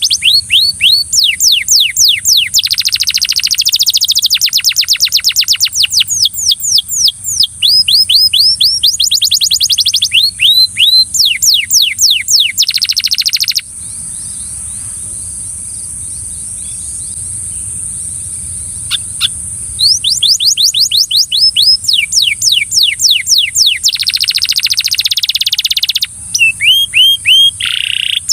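Belgian canary singing in fast trills of repeated falling notes, in long phrases. The song breaks off for about six seconds midway, then starts again.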